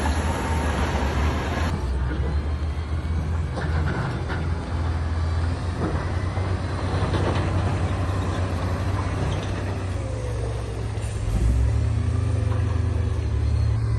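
Heavy diesel construction machinery running steadily, a deep engine drone with a few faint clanks; it grows louder about eleven seconds in.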